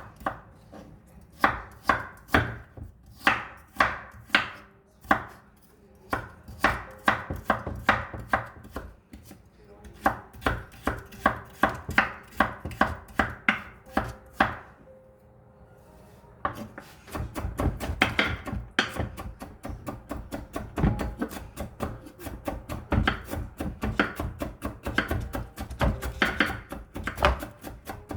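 Kitchen knife chopping vegetables for a toast egg mixture, with steady strokes about twice a second that speed up. After a short pause about 15 seconds in, the knife goes into fast, dense mincing.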